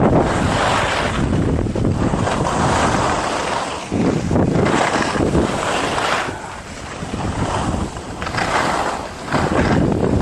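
Wind rushing over the microphone of a camera carried by a skier on a downhill run, mixed with skis scraping and hissing on snow. It surges and eases, with a quieter stretch about two-thirds of the way through.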